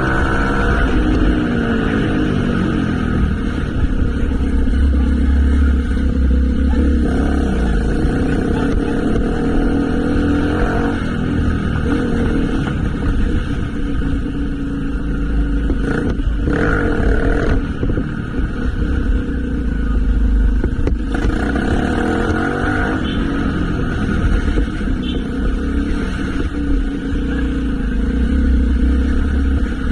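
Motorcycle engine running under way, its revs rising and falling several times as the bike accelerates and eases off, over a heavy low rumble.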